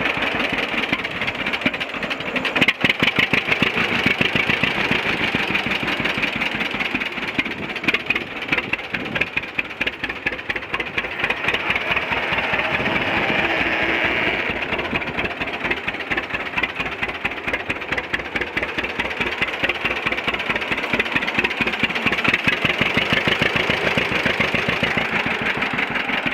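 1947 John Deere A's two-cylinder engine running with a rapid, even putt of firing strokes, its speed rising and falling a few times.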